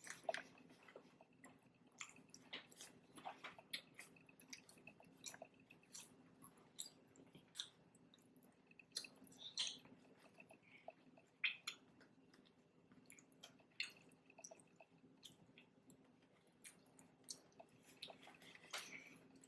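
Close-miked chewing of a cheeseburger egg roll: irregular wet mouth clicks and smacks, with a faint steady hum underneath.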